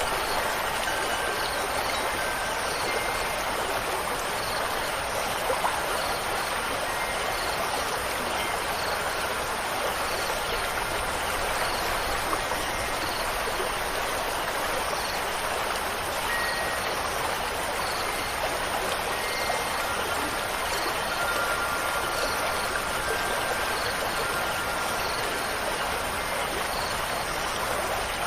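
Stream water running steadily, an even rushing with no let-up, and a few faint short high tones now and then.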